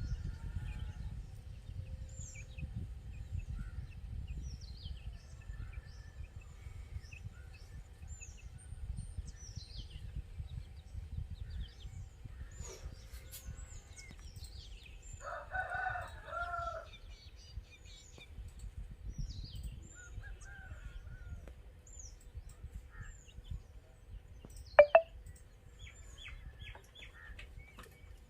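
A rooster crows once, about halfway through, among many small birds chirping high and briefly throughout. There is a single sharp click near the end, over a steady low rumble.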